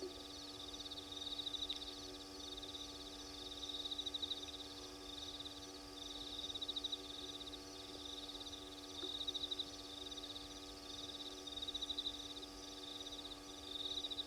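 A night-calling animal giving rapid pulsed trills, each about a second long, repeated every two seconds or so, over a steady hum.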